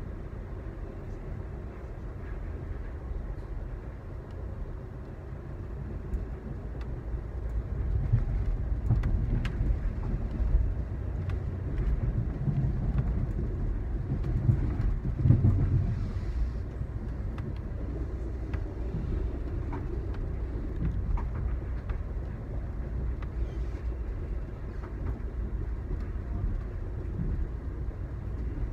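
Low rumble of a moving Amtrak passenger train heard from inside the car, with scattered faint clicks. It grows louder about a third of the way in and eases again after the middle.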